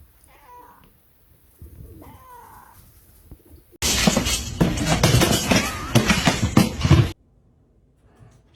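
Two brief animal cries that glide in pitch, then, about four seconds in, a loud crashing clatter of many impacts lasting some three seconds that cuts off abruptly.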